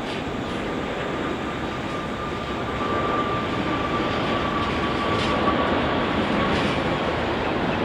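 Jet airliner's engines running, a steady rush with a thin high whine held through most of the clip, growing a little louder.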